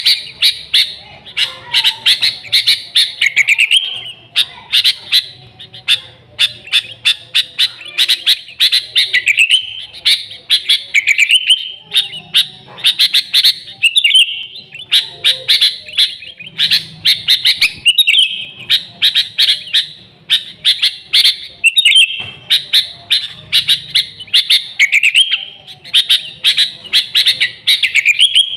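Sooty-headed bulbul (kutilang) singing hard: a fast, unbroken run of short, bright chirps and warbled phrases.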